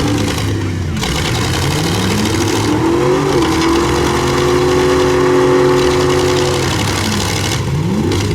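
Pickup truck engines revving in a demolition derby: one climbs in pitch, is held at high revs for about three seconds, then drops, and another revs up near the end, over the steady din of other running engines.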